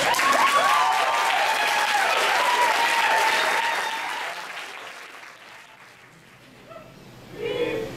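Audience applauding, with whoops, dying away about five seconds in.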